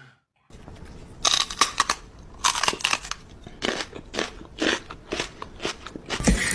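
Repeated crunching, like something hard and brittle being chewed, about two crunches a second, growing louder about a second in.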